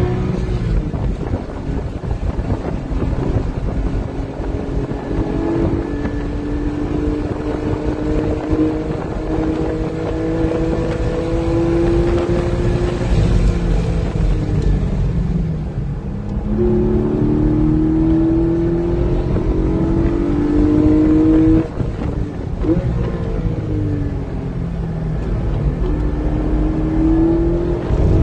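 Porsche GT4's naturally aspirated flat-six pulling hard on track. Its pitch climbs slowly through a long stretch, drops about halfway as it brakes and downshifts, then climbs again. A little past two-thirds through there is a quick drop and a short rev blip before it pulls once more.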